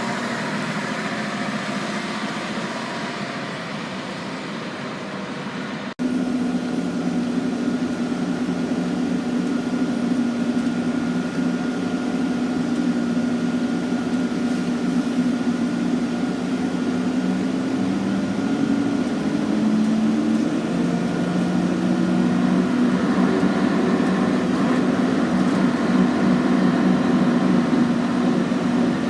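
Scania N113CRB city bus running. After an abrupt cut about six seconds in, there is a steady engine hum with a faint high whine, its pitch shifting a couple of times later on.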